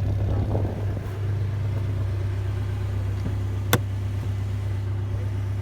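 Vehicle engine idling steadily, a constant low hum, with one sharp click about three and a half seconds in.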